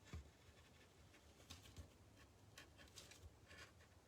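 Faint, irregular scratching and clicking of a craft blade scoring through a thin piece of material as it cuts out a circle.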